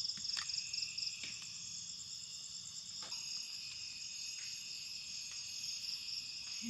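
Chorus of crickets and other insects trilling steadily at a high pitch, with a few faint clicks over it.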